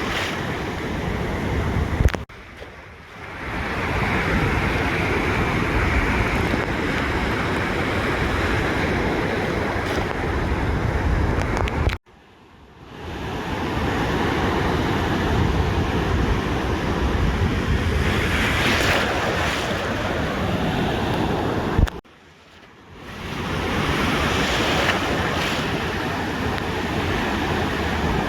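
Ocean surf washing onto a beach, a steady rush with swells as waves break. The sound cuts out abruptly three times, about ten seconds apart, and fades back in over a second or two each time.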